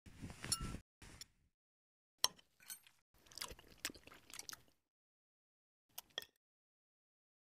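Crunching, chewing bites in short bursts with sharp clicks, as a cob of corn made of LEGO bricks is eaten, then two light clicks near the end.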